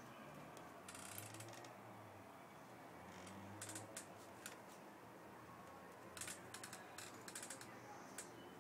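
A cat playing with a sponge toy: faint, scattered small clicks and scuffles, with a brief rustle about a second in and a run of quick clicks about six to seven and a half seconds in.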